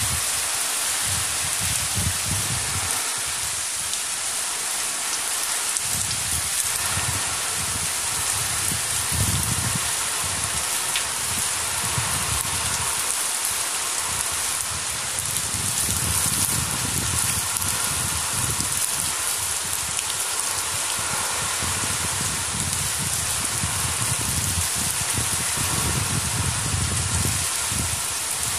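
Heavy rain falling steadily on rooftops: a dense, even hiss, with low rumbling that swells and fades every few seconds.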